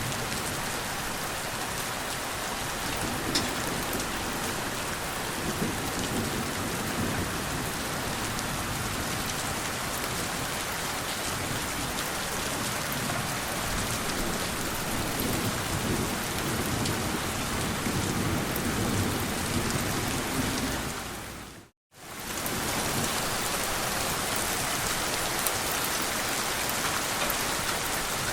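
Steady heavy rain falling on surfaces, with low rumbles of distant thunder swelling and fading under it. About three-quarters of the way through, the sound fades out to a moment of silence and fades straight back in, like a loop seam in the recording.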